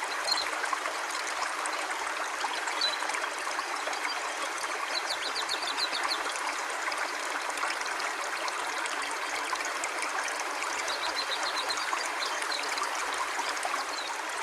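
River water flowing steadily: a soft, even rush with no breaks.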